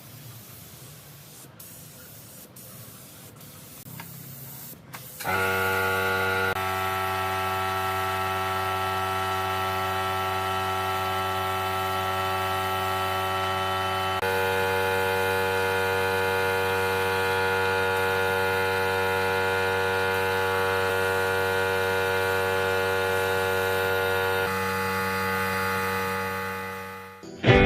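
An electric motor, likely a power tool, starts running about five seconds in after a few faint clicks. It holds a steady humming pitch that shifts slightly a few times, then dies away shortly before the end.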